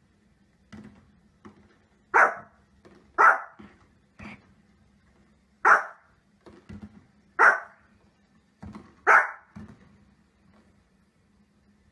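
Small fluffy dog barking in short sharp barks, five loud ones spaced one to two seconds apart, with fainter short sounds in between.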